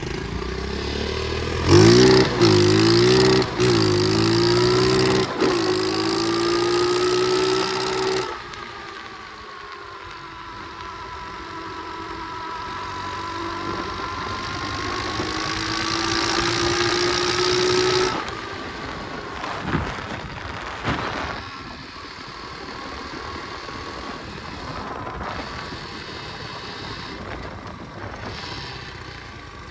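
Pit bike engine revving hard and shifting up through the gears, its note climbing and dropping back at each shift for several seconds. About eight seconds in, the note falls and then rises slowly and steadily for about ten seconds before the engine eases off to a quieter run.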